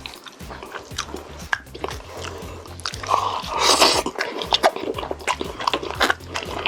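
Close-miked eating: a person biting and chewing crunchy food, many small crisp crackles, with a louder, longer crunch a little past halfway.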